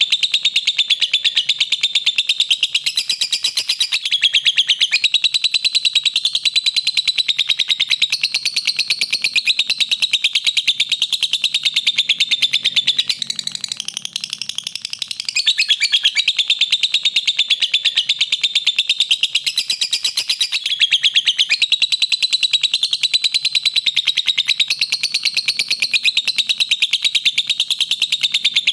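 Lovebird chattering in a long, rapid, unbroken run of high chirps, easing briefly about halfway through before picking up again.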